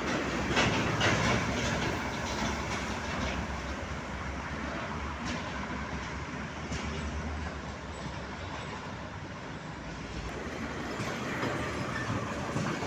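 Heavy vehicle rumbling past, loudest in the first couple of seconds, with scattered clattering throughout.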